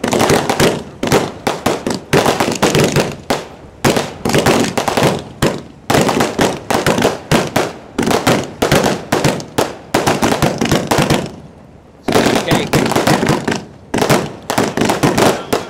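Fireworks display heard close up from the firing barge: a dense, rapid string of shells launching and bursting, many sharp bangs and crackles a second, with a brief lull about eleven seconds in.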